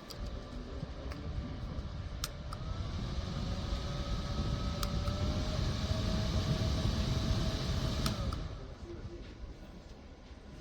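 Small USB desk fan running, its airflow buffeting the microphone with a low rumble that builds, then drops off about eight seconds in, over a faint steady motor whine and a few sharp clicks.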